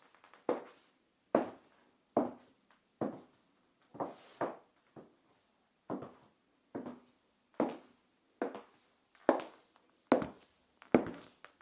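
Stiletto high heels with plastic heel tips clicking on a tiled floor in steady walking steps, a little more than one a second. Each click rings briefly in a small room.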